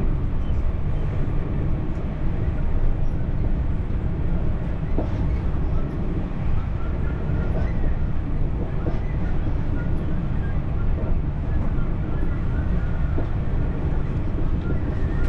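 French TER regional train running along the track, a steady rumble of wheels and carriage with a few faint clicks.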